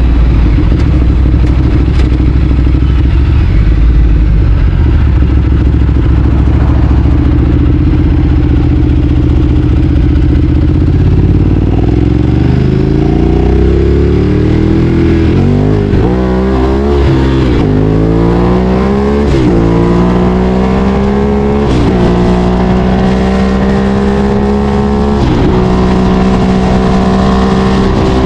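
Ducati Streetfighter 848's L-twin engine running at steady low revs, then from about halfway accelerating hard through the gears: the engine note climbs and drops sharply at each of several upshifts.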